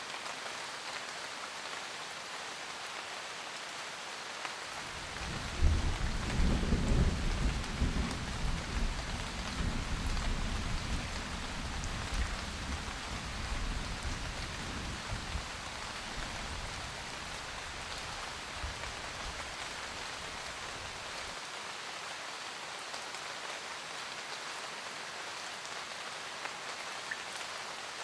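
Steady rain with a roll of thunder. The thunder starts about five seconds in, is loudest at first, then rumbles on and fades away over about fifteen seconds while the rain continues.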